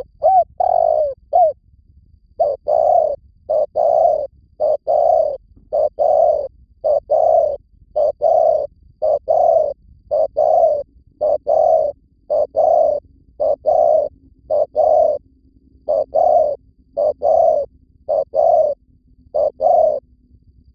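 Spotted dove cooing: short, low coo notes repeated again and again in quick runs of two or three, with brief pauses between the runs.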